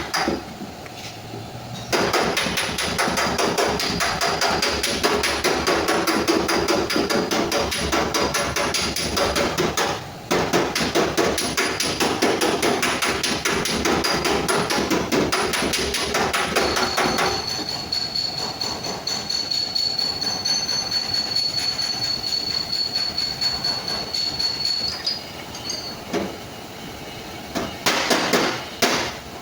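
Rapid, continuous hammering on a car's sheet-metal fender panel, with short breaks about two seconds and ten seconds in. The strikes grow lighter in the last third, with a thin high ringing tone running under them for several seconds.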